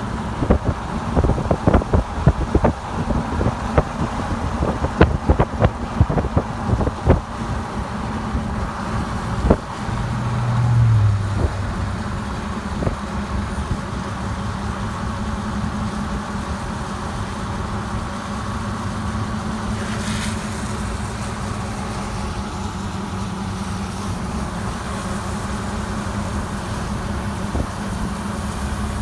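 Road noise inside a moving car: a steady low hum of engine and tyres, with a run of sharp knocks and rattles during the first ten seconds or so.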